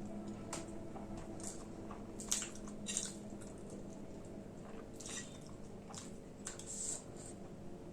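Close-miked mouth sounds of someone eating soft khichdi: irregular wet, squishy chewing and lip smacks, over a faint steady hum.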